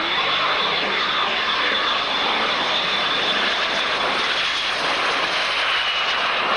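Aircraft engine noise from a display flight: a steady, loud rush with a faint high whine held through most of it.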